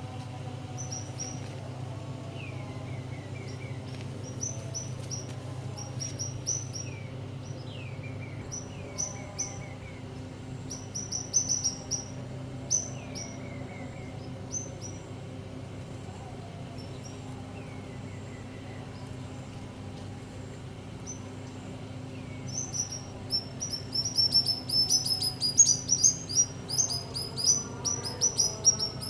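Birds chirping: runs of quick high chirps, and a short falling call repeated every few seconds, with the chirping growing louder and denser near the end. A steady low hum runs underneath.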